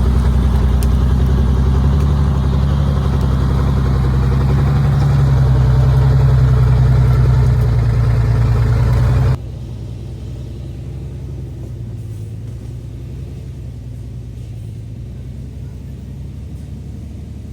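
Small wood-laden truck's engine running hard up a mountain road, a steady low drone. About nine seconds in it drops suddenly to a quieter, steady run.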